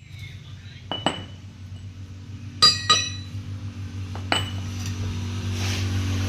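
Metal striking metal: about five sharp clinks, two pairs and then a single strike, each ringing briefly, over a steady low hum.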